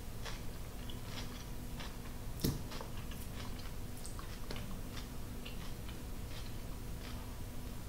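A person chewing a mouthful of soft cultured sunflower seed cheese: small, irregular mouth clicks and smacks, one sharper click about two and a half seconds in, over a faint steady hum.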